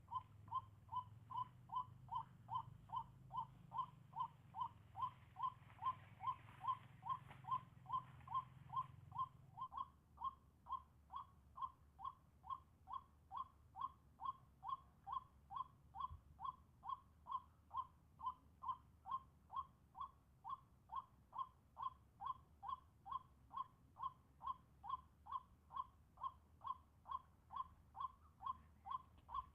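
White-breasted waterhen calling: one short hooting note repeated evenly, about twice a second, without a break.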